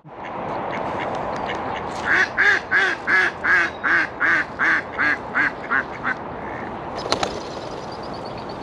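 A duck quacking, a run of about a dozen quacks that come quicker and shorter as they fade, over a steady background hiss.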